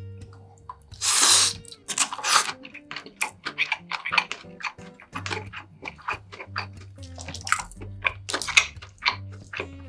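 Close-miked eating: a run of small clicks and smacks from chewing and utensils, with a loud slurp about a second in, a shorter one near two and a half seconds, and another near the end.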